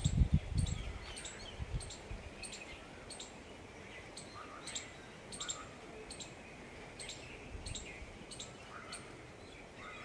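Small birds chirping in short, sharp high calls repeated irregularly about every half second, over faint outdoor background noise. A low rumble in the first second or two is the loudest part.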